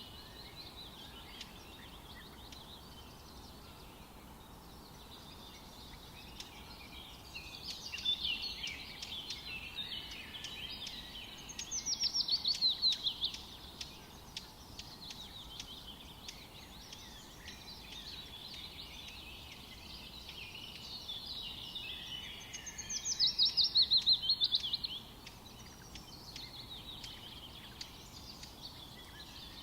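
Forest birdsong: a background of many small birds chirping, and twice a louder song of rapid notes that falls in pitch, each phrase about two seconds long.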